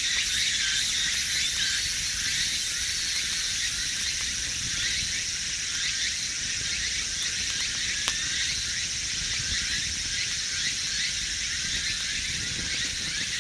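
A steady outdoor chorus of insects, a high continuous trilling with many quick chirps, with a single sharp click about eight seconds in.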